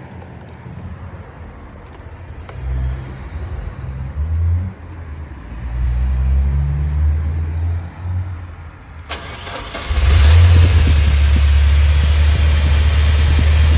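UAZ Farmer engine being started: a short high beep about two seconds in and some uneven low rumbling. About nine seconds in the starter cranks and the engine catches, then settles into a steady, loud idle.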